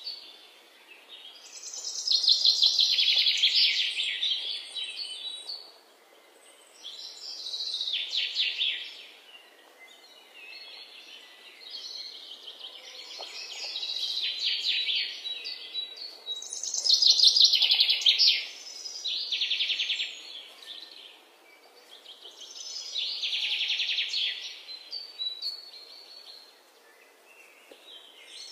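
Songbird singing in repeated high phrases of rapid trills, a new phrase every few seconds with short quiet gaps between.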